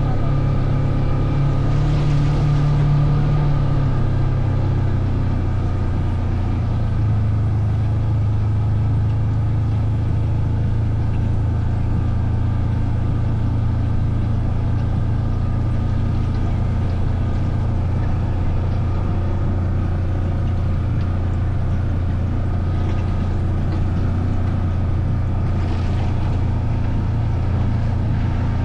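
A vehicle engine running steadily under way, heard from on board, its pitch dropping slightly about four seconds in.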